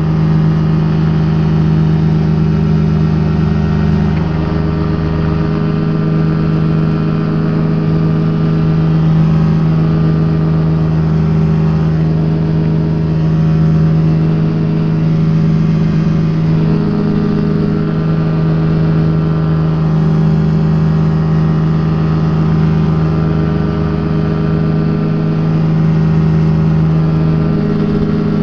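Rotax engine of a Quad City Challenger ultralight running steadily in flight, heard from the open cockpit, with small shifts in pitch as the power is adjusted.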